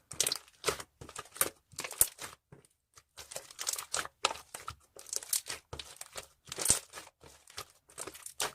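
Slime being squished and stretched by hand, giving off irregular crackling and popping clicks, several a second.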